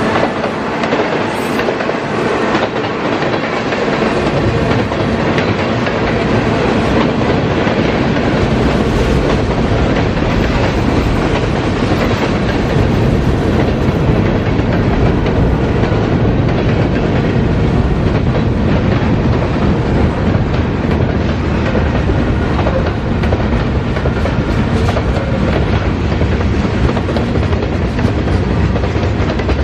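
CSX mixed freight train's cars rolling past close by: a loud, steady rumble of steel wheels on rail with clickety-clack over the rail joints. The low rumble builds up a few seconds in.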